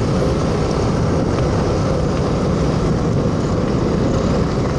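Steady rumble of a moving vehicle, road and wind noise with no distinct events.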